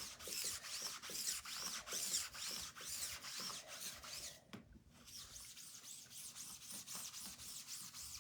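A wet board eraser scrubbed over a sticky chalk-paste transfer to clean it, in quick repeated back-and-forth strokes. There is a short break about halfway through, and the strokes are softer afterwards.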